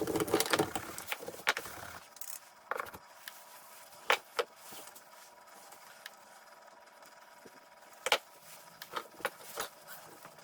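Scattered light knocks and metal clinks of hand tools and small parts being handled, with a busier rustling clatter in the first two seconds.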